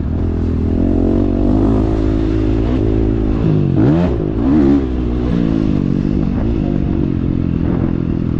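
Motocross dirt bike engine running loud and steady, revved up and back down twice in quick succession about four seconds in.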